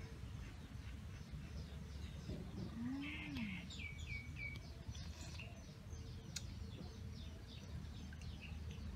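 Small birds chirping in a steady stream of quick, short high notes, with a rapid falling run of calls about three seconds in. A single sharp click comes a little past the middle.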